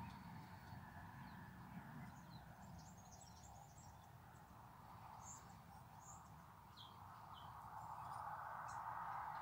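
Faint birds chirping: scattered short high calls over a low, steady background hiss and rumble.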